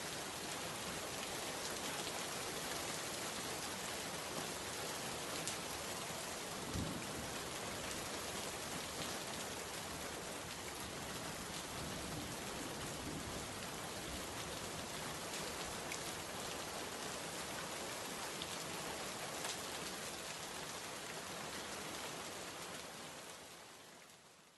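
Steady rain falling on a surface, an even hiss with scattered sharper drop ticks and a brief low thump about seven seconds in. The rain fades out over the last two seconds.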